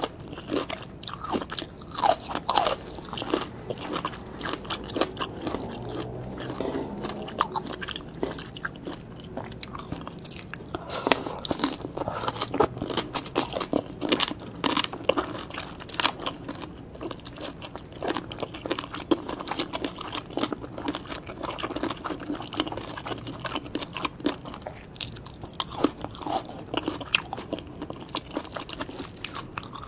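Close-miked chewing of spicy green papaya salad, with many crisp, irregular crunches as the raw shredded papaya and vegetables are bitten and chewed.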